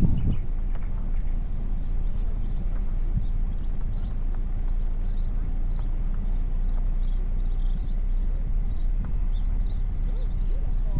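Small birds chirping over and over above a steady low rumble.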